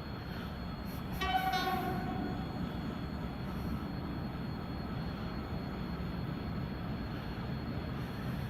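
Train on the line with a steady low rumble, and a short high-pitched horn signal about a second in.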